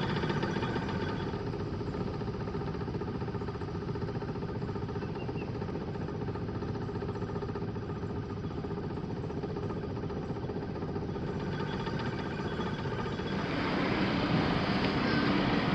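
Small motorboat engine running at low, slow-going throttle, a steady hum that grows somewhat louder near the end.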